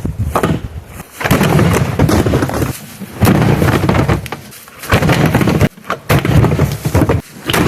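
Dishwasher's metal panels and parts crashing and rattling as they are wrenched and broken apart by hand, in four loud bursts of about a second each.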